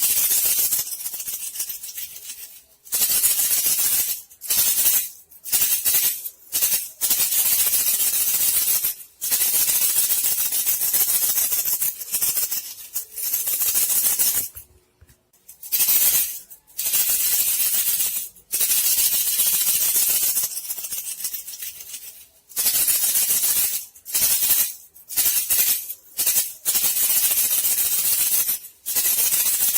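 Shaken bamboo-strip (tok) rat lure, a dry hissing rattle used to call bandicoot rats. It comes in bursts of one to three seconds with short breaks between them.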